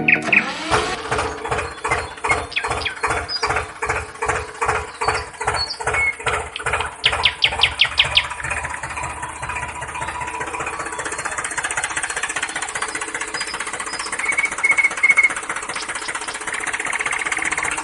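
A small motor-driven mechanism, likely the homemade model tractor seed spreader, running with an even clacking of about four clicks a second. About halfway through it turns into a faster, steadier rattle.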